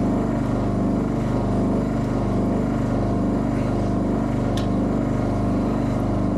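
Vacuum pump running steadily, pulling vacuum on a valve port of a diesel cylinder head to test how well the valves seal. There is a light click about four and a half seconds in.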